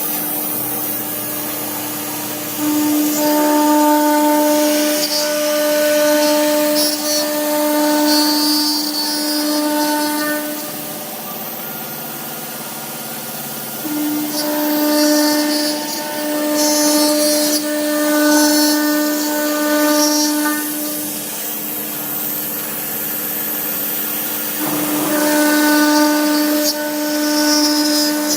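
CNC router spindle milling 12 mm aluminium plate: a steady, high-pitched cutting whine with a strong ringing tone, in long stretches that drop away to quieter spells a few times as the cutter eases off the cut.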